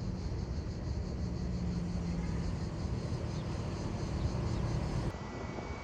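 Low steady rumble of a distant aircraft engine, with an abrupt change in the sound about five seconds in.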